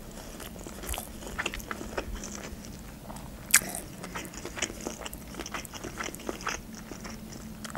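Close-miked chewing of food with the mouth closed: a string of small wet mouth clicks, with one sharper click about three and a half seconds in.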